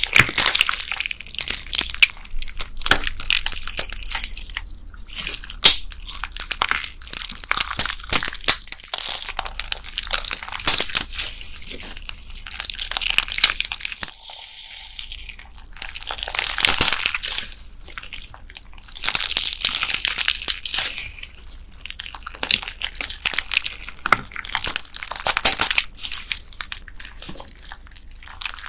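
Hands kneading and squeezing a slime packed with beads: dense crackling and clicking of the beads in the slime, coming in waves, with a short lull about halfway.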